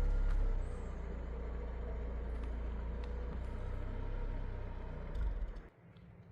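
A motor vehicle's engine running with a steady low rumble, swelling briefly and then cutting off abruptly near the end.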